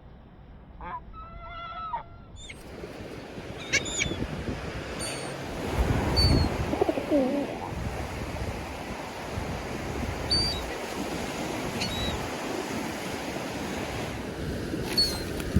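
Seagulls giving short squawking calls, several in the first couple of seconds. From about two and a half seconds in, a steady rushing noise of wind and surf takes over, loudest about six seconds in, with occasional faint calls above it.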